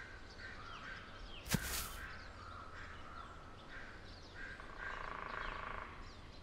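Quiet forest ambience of scattered short bird chirps, with one brief sharp sound about a second and a half in and a raspy, buzzing animal call lasting about a second near five seconds in.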